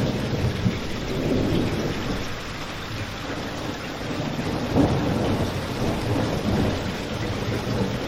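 Steady rain with a deep, low rumble, layered with a crackling fireplace; a sharper pop stands out about five seconds in.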